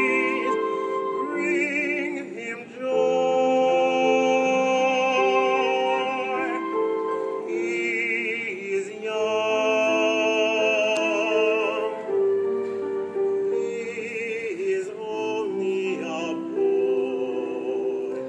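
Classical-style singing with wide vibrato on long held notes, over sustained accompanying chords.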